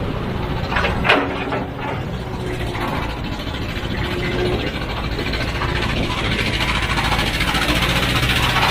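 Heavy machine's diesel engine running steadily, with a couple of short metallic knocks about a second in.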